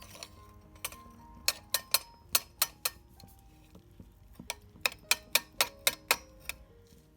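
Sharp irregular clicks and taps of small metal utensils on a hard surface while preparing food in a miniature kitchen, about fifteen in all, in two clusters. Soft background music plays underneath.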